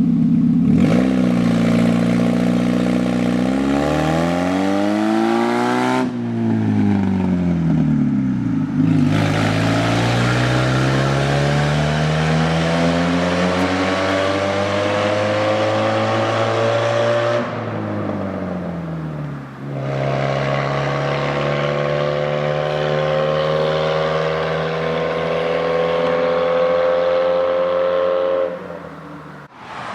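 1993 Saturn SW2's 1.9-litre twin-cam four-cylinder running with open exhaust, no pipes after the manifold, loud and raspy. Its pitch climbs under acceleration and drops when the throttle comes off, several times over, with abrupt breaks between runs.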